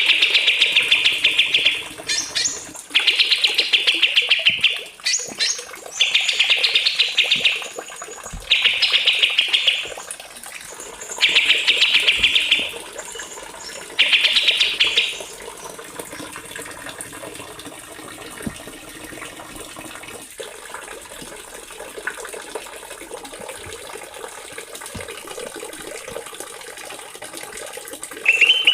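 A small songbird singing six short, high, rapid trilled phrases of about one to two seconds each, with short gaps between them. In the second half only a faint steady hiss remains.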